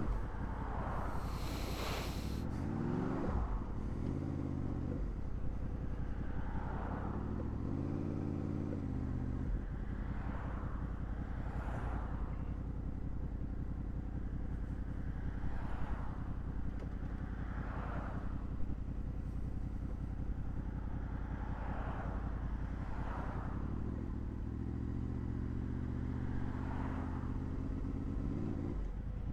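Honda VFR800's V4 engine running on the move, its revs rising and falling a few times near the start, around eight seconds in and near the end, with steady running between.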